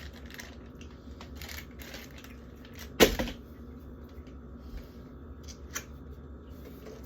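Food containers and packaging being handled while a fridge is cleared out: scattered light clicks and rustles, with one sharp knock about three seconds in as something is set down, over a steady low hum.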